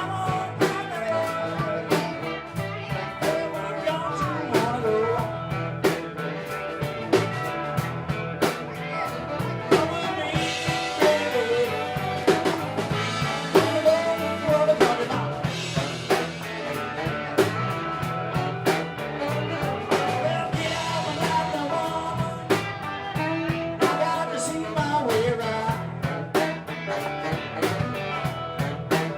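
Live band playing a blues-rock song with electric guitar, bass and drum kit keeping a steady beat.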